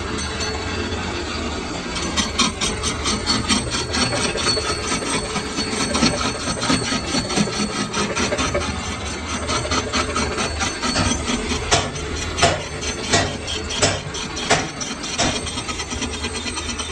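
Metalworking in a lathe workshop: a machine's low steady hum under rapid scraping and clicking of metal tools on a workpiece, with several sharper knocks near the end.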